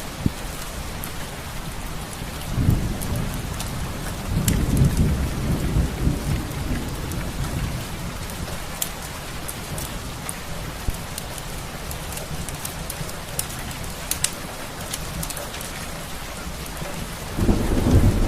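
Steady rain with low rolls of thunder, about three times, the last building near the end. Scattered sharp crackles sound over the rain.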